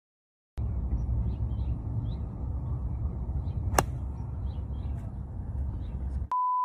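A steady low rumble with faint high chirps, broken by a single sharp crack a little after three seconds in. Near the end a short pure beep cuts everything else out: a censor bleep over a word.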